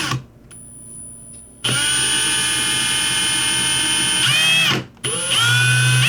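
Small electric drill with a fine bit running at high speed, trying to drill out a fuel-hole stopper in a butane lighter. It runs steadily as a high whine, winds down and stops near the end, then starts up again with a rising whine. The owner judges the bit too dull to cut.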